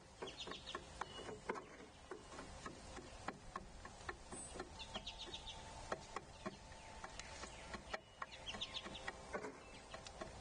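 Birds feeding on seed at a platform feeder: irregular light taps and clicks of pecking, with a short, high, rapidly repeated chittering call three times.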